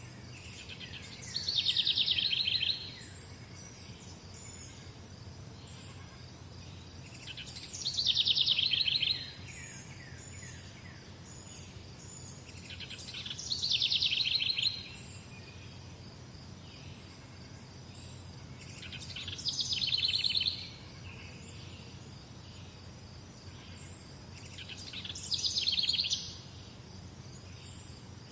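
A songbird repeating the same short, fast trilled phrase five times, about every six seconds, each phrase lasting about a second and a half and falling in pitch toward its end. A steady low hum of background noise runs underneath.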